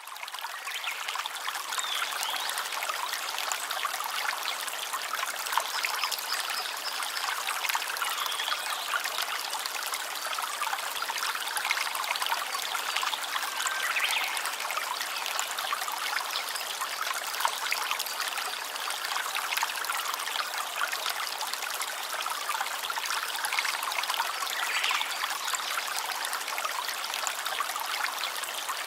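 A small stream trickling and splashing steadily.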